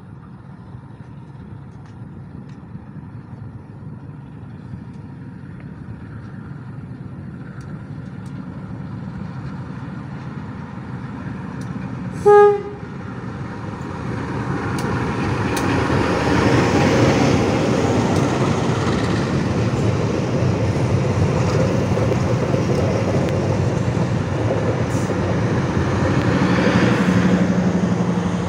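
Diesel locomotive hauling a passenger train, its engine and wheel-on-rail rumble growing steadily louder as it approaches. About twelve seconds in it sounds one short horn blast, the loudest moment, and then the locomotive and coaches pass close by with a steady rumble.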